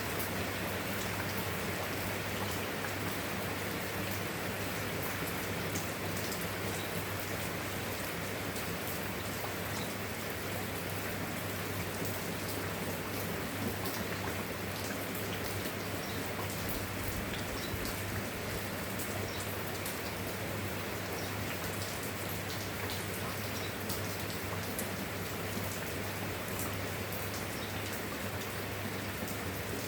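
Steady rain falling, with a constant patter of individual drops over a dense hiss, and a steady low hum beneath it.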